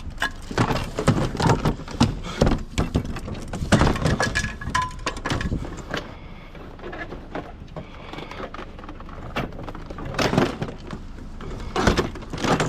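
A foosball table being lifted and pushed onto a loaded scrap trailer: a run of knocks and clatter over the first several seconds, a quieter stretch, then a few more knocks near the end.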